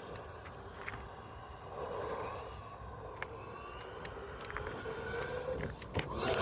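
JLB Cheetah RC buggy's brushless motor whining as it is driven, the pitch rising and falling with the throttle, with a few small clicks. It grows a little louder near the end.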